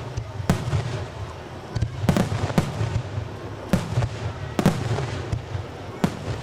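Aerial fireworks shells bursting, a series of sharp bangs roughly every second, over a continuous low rumble of the display.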